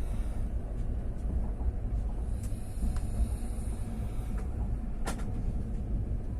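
Passenger train in motion: a steady low rumble of the coach running on the rails, with a few faint clicks and one sharper knock about five seconds in.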